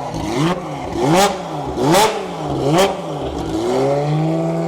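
Ferrari 355 Challenge's flat-plane V8 revved in four quick throttle blips about a second apart, each rising and falling in pitch, with a sharp crack at the top of several, then dropping back to a steady idle near the end.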